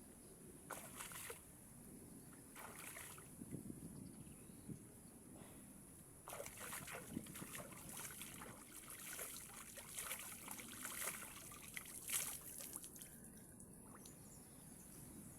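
Faint water splashing and sloshing in irregular bursts, busiest from about six to twelve seconds in, over the low rush of a flowing stream.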